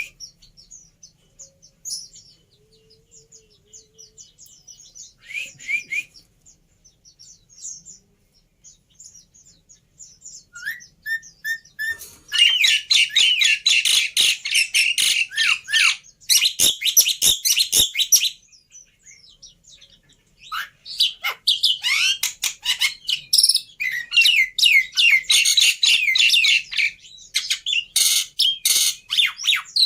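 Recorded song of a black-winged starling (jalak putih): scattered short calls at first, then from about 12 seconds in a loud, fast run of chattering and whistled notes that breaks off briefly and starts again.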